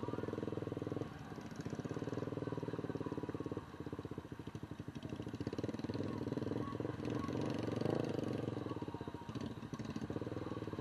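An engine running with a fast, even pulse, its level dipping briefly about a second in and again near four seconds in.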